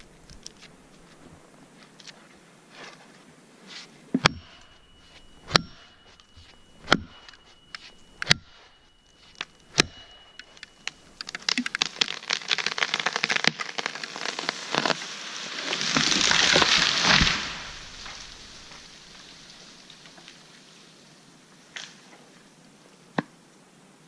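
Five sharp knocks about a second and a half apart, then a spruce tree coming down: a long run of cracking and snapping branches that builds to a loud crash near the end and dies away.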